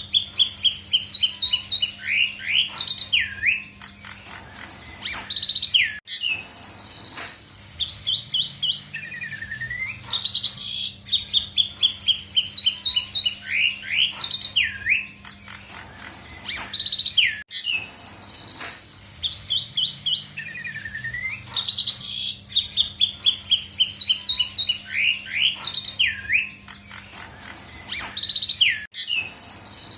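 Jalak suren (Asian pied starling) singing loudly with a full repertoire of mimicked calls: rapid runs of short descending whistled notes mixed with rising sweeps. The same sequence of phrases comes round about every ten seconds, over a steady low hum.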